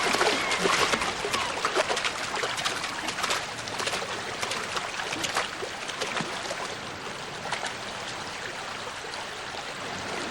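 Shallow river water running, with many quick splashes. It is busiest in the first few seconds and settles to a steadier flow.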